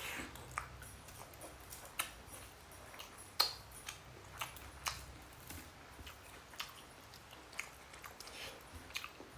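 A person chewing a mouthful of rice and egg curry: irregular soft mouth clicks and smacks, one louder about three and a half seconds in.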